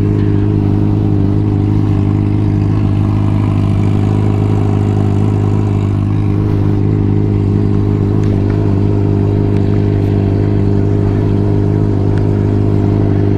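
Motorcycle engine running at a constant speed, one steady, unchanging note.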